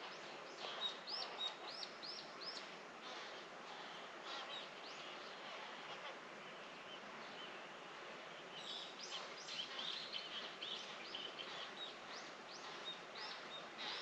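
Small songbirds chirping: a run of four quick high chirps about a second in, then a busier stretch of chirping in the second half, over steady background noise.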